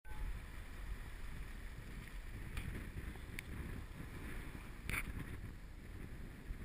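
Wind and pounding storm surf heard as a muffled, steady low rumble through a sealed waterproof GoPro Hero 2 housing, with a few faint clicks.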